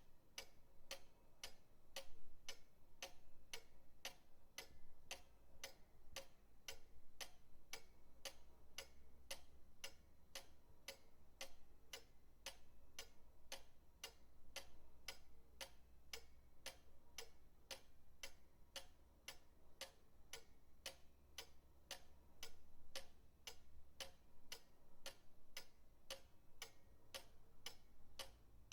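Pendulum clock ticking steadily: sharp, evenly spaced ticks, a little over two a second, over a faint low hum.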